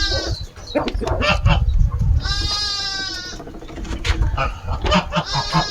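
Goat bleating: long, level calls about three seconds apart, one in the middle and another starting near the end, over a low rumble.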